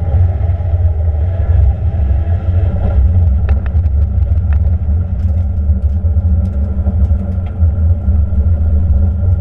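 LS V8 of a turbocharged 4th-gen Camaro running at low, steady revs, heard from inside the cabin as a deep even rumble. This follows the pass in which the turbo shaft snapped and threw the exhaust wheel out of the exhaust.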